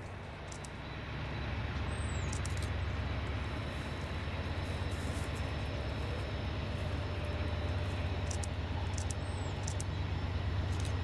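Diesel locomotives of a BNSF freight train rumbling steadily, growing louder a second or two in as the train nears.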